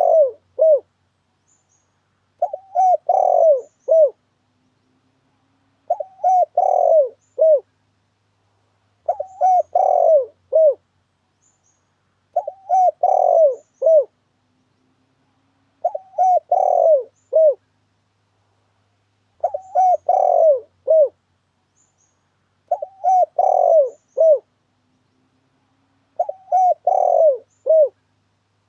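Spotted dove (tekukur) cooing: the same short phrase of several coos repeated about every three and a half seconds, with silence between phrases.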